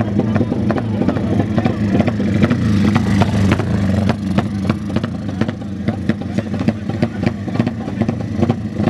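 Motorcycle engines running, with many sharp clicks and crackles, over a background of voices.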